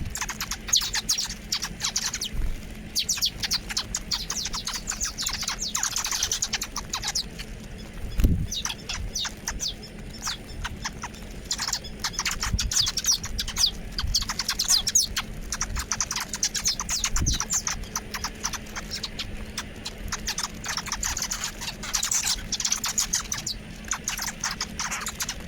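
A flock of small birds chirping and twittering in a dense, busy chorus of rapid high chirps that carries on throughout. A few brief low thumps sound under it, the strongest about a third of the way in.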